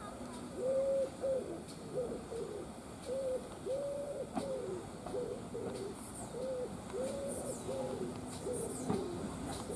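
Wood pigeon cooing: a run of soft, low, arched coos repeated in phrases, with faint chirps of small birds higher up.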